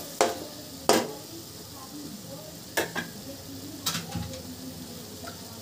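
Onion, tomato and capsicum masala sizzling in oil in a kadai, with four sharp clicks of a spatula against the pan.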